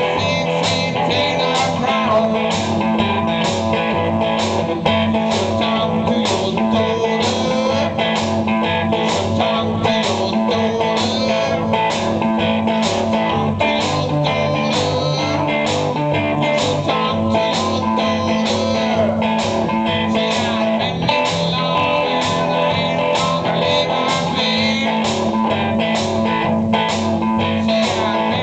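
Live blues-rock music: an instrumental passage of guitar over a steady, even beat, with no singing.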